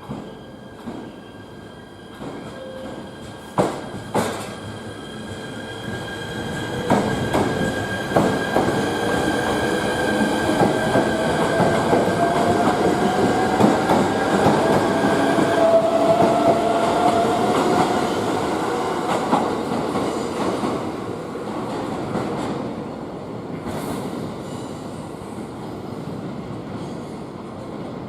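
A train moving through the station, loudest in the middle and fading after, with squealing wheel tones that slowly rise in pitch and scattered clacks over rail joints.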